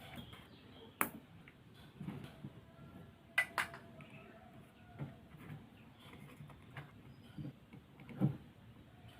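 Scattered light knocks and sharp clicks of small objects being handled, with a sharp click about a second in, a quick double click a little past the middle, and a louder knock near the end.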